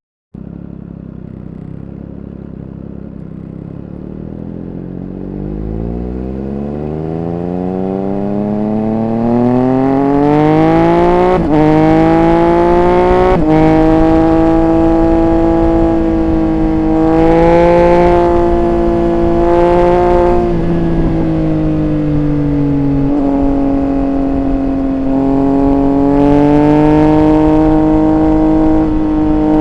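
Triumph Speed Triple 1200 RR's inline three-cylinder engine pulling away and accelerating, its pitch rising steadily over about ten seconds. Two brief breaks follow, as on gear changes. It then runs at a steady cruise, eases off, and picks up again near the end.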